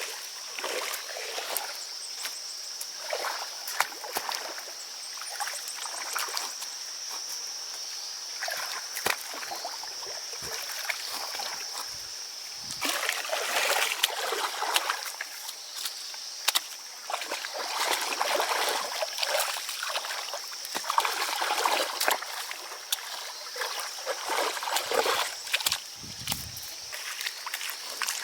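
Irregular splashing and sloshing of water in shallow pond water, with a steady high-pitched drone through the first half that fades out.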